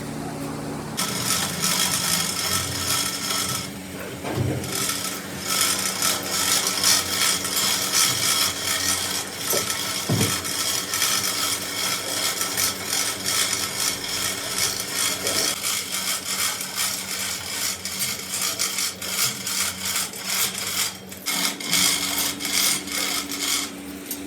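Harsh, irregular rasping of steel being worked by hand with an abrasive tool on an excavator shaft, starting about a second in, over a steady machine hum.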